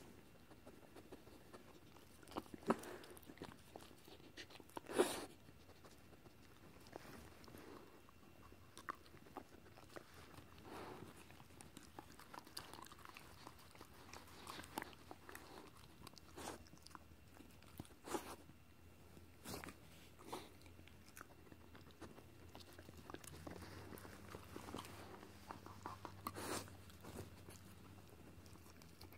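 A dog nibbling and licking at another dog's teeth and mouth: faint, irregular wet clicks and snaps of teeth, with a couple of sharper snaps about three and five seconds in.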